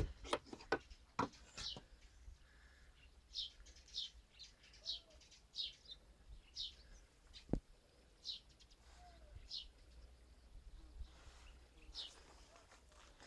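A small bird chirping repeatedly: short, high, downward-sliding notes about once a second. A few sharp clicks in the first two seconds and a single sharp knock about seven and a half seconds in, from hand tools being handled at the car's boot.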